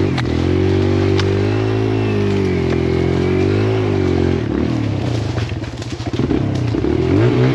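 Kawasaki KLX140L dirt bike's single-cylinder four-stroke engine running under a steady throttle for about four seconds, then revving up and down, with scattered knocks and rattles from the bike. The rider fears it is not sounding good and that he may have damaged it.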